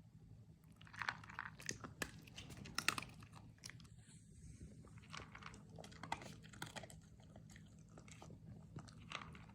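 A dog chewing and crunching on something, with irregular crisp crunches and bites, loudest about a second in and again about three seconds in.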